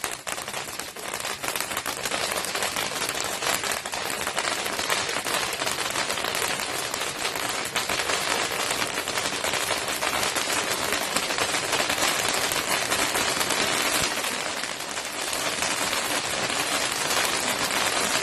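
Large cone firework fountain spraying with a dense, continuous crackle of rapid small pops.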